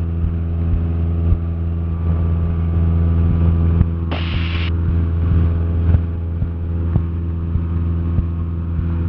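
Cessna 172SP's four-cylinder Lycoming engine and propeller droning steadily in cruise, heard in the cabin. A short burst of hiss comes about four seconds in.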